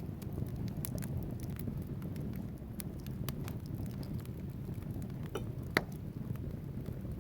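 Wood fire burning in a fireplace: a steady low rumble of flames with scattered sharp crackles from the logs, and one louder pop a little under six seconds in.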